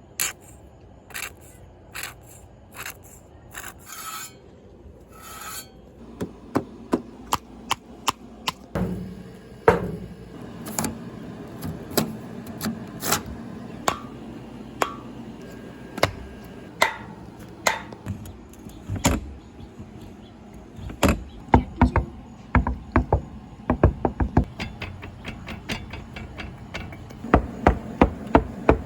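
A series of sharp clicks and knocks, scattered at first and coming faster and more evenly near the end, about three a second, with a short buzzing a few seconds in.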